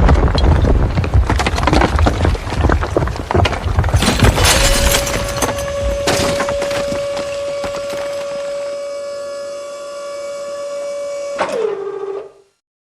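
Crashing and breaking noise with heavy rumble and many sharp knocks for the first half. A steady siren-like tone then holds, glides downward near the end and cuts off abruptly.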